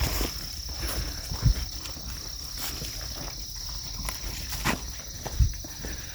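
Footsteps of people walking, with a few heavier thumps, under a steady high-pitched insect drone.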